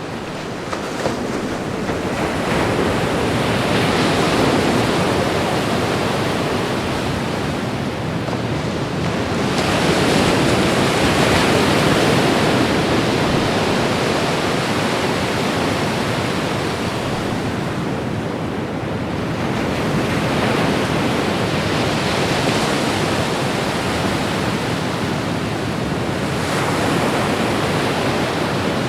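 Ocean waves breaking and washing on the shore. The surf swells and ebbs in slow surges every several seconds.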